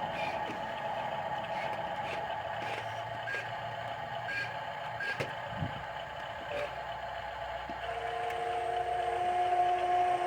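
Radio-controlled dump truck running: a steady electric motor and gearbox whine with scattered clicks and short high beeps, and a few held tones coming in near the end.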